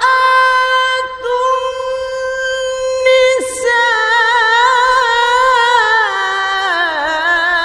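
Mujawwad-style Quran recitation (tilawah) by a male qari: a single voice holds a long, high note, then ornaments it with wavering melodic turns and steps down in pitch near the end.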